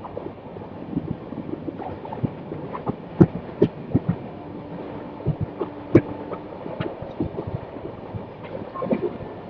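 Ganga–Sutlej Express passenger train running, a steady rumble broken by irregular clanks and knocks from the coaches, with a faint steady tone for a couple of seconds around the middle.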